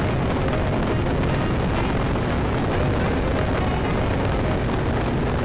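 Steady, loud wind rumble on the microphone mixed with the running noise of a Yamaha Tricity 155 three-wheel scooter on the move.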